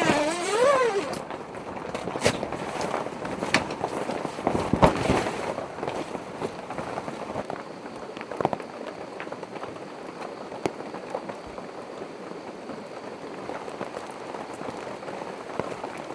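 Rain falling on a tent, with irregular drops striking the fabric sharply, some louder than others, over a steady hiss of rain. A brief pitched sound glides up and down at the very start.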